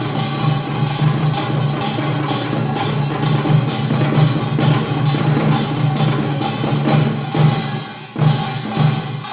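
Korean traditional percussion ensemble of janggu, kkwaenggwari, buk and jing playing a fast, dense beat, with a steady mid-pitched tone held above the drums. About eight seconds in, the beat breaks off into a few separate, accented strokes.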